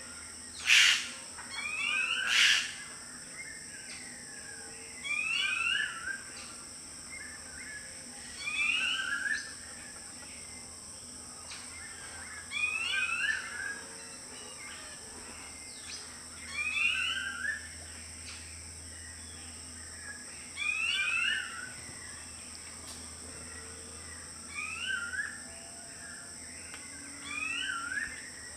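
A bird singing a short phrase of quick rising notes, repeated about every four seconds, over a steady high-pitched insect drone.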